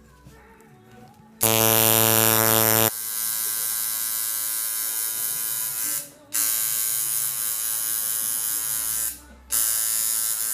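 Electric tattoo machine buzzing in runs. It starts about a second and a half in, louder for its first second and a half, cuts out briefly twice and stops at the end.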